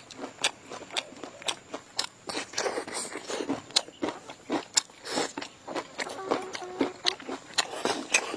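Close-up eating sounds: people biting and chewing crunchy food, with sharp crunches coming several times a second.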